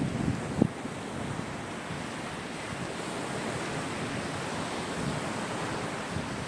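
Sea surf washing steadily on the shore, a continuous hiss of breaking water. A few low gusts of wind hit the microphone in the first second.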